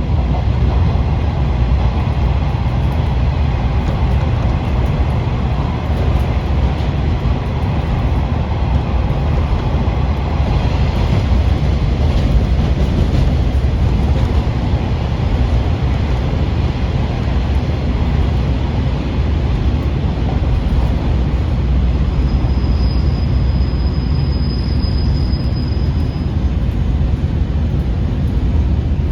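KiHa 40 series diesel railcar running on the line, a steady loud rumble of the diesel engine and wheels on rail. A thin high squeal is heard for a few seconds about two-thirds of the way through.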